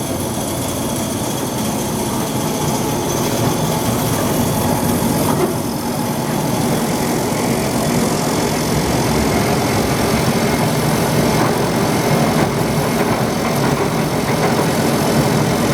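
Doall 3613 36-inch vertical bandsaw running with no load, in its low gear range with the variable speed at its highest setting: a steady, even machine run from the electric motor and drive.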